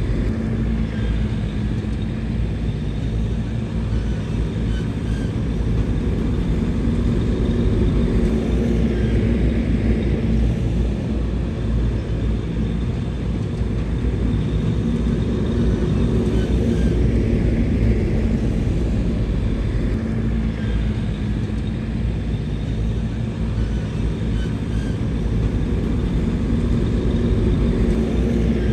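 Bulldozer's diesel engine running under load as it works, its note swelling and easing in slow cycles every several seconds.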